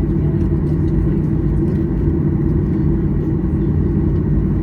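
Steady low rumble of a Boeing 737-800 heard from inside the passenger cabin.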